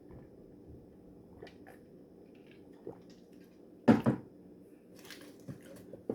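A person drinking water in a quiet room: a few faint handling clicks, then a short, loud throaty gulp about four seconds in.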